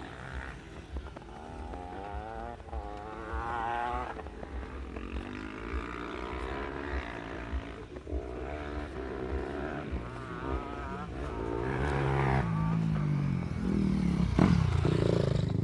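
Motocross dirt bike engines revving up and down, the pitch rising and falling repeatedly, growing louder over the last few seconds.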